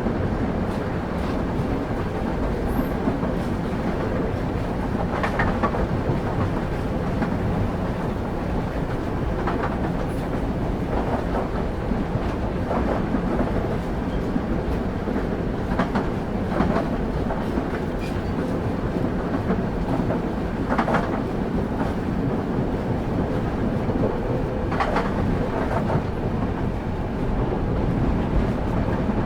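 Train running at speed, heard as a steady low rumble of wheels and carriage with scattered clickety-clack knocks of the wheels over rail joints.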